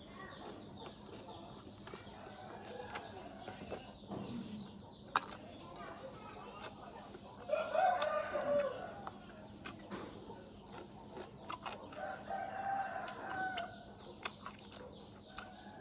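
A rooster crows about halfway through, with a second, steadier call around twelve seconds in. Scattered small clicks and taps run throughout.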